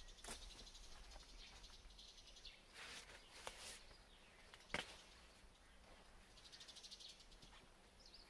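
Faint outdoor ambience near silence: small birds chirping in quick high trills twice, with a few soft clicks.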